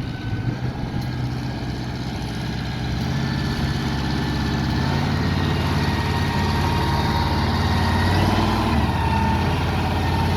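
Pulling tractor's engine running, its steady low drone growing louder from a few seconds in.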